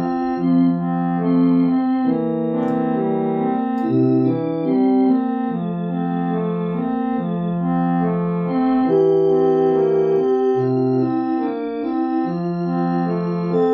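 Electronic keyboard playing a slow tune, with held organ-like notes: a melody over a bass line that changes note every second or two.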